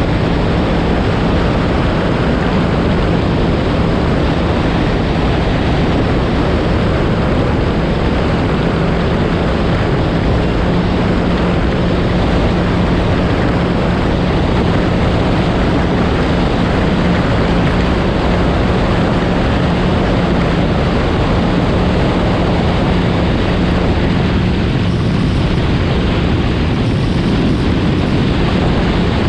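Yamaha FX SVHO personal watercraft's supercharged 1.8-litre four-cylinder engine running steadily under way, a constant drone with one low steady tone. Wind buffets the microphone and water rushes past the hull.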